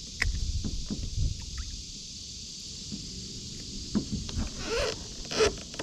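Hollow low knocks and bumps of a plastic kayak hull and gear being handled, with two short rustling bursts near the end, over a steady high drone of insects.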